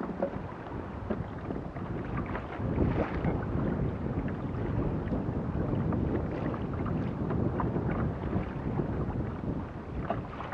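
Wind buffeting the microphone in a steady rush, with water lapping against the kayak and a few small knocks.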